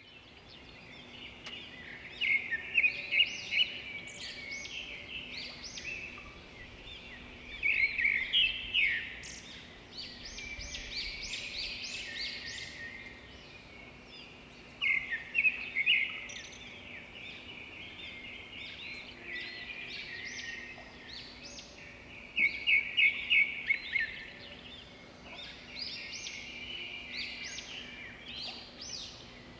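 Birds chirping in repeated bouts of rapid, high-pitched calls every few seconds, over a faint steady hum.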